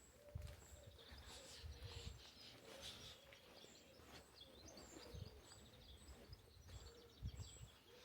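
Faint birdsong: small birds chirping and trilling, one repeating a short high note about every half second, over soft low thumps.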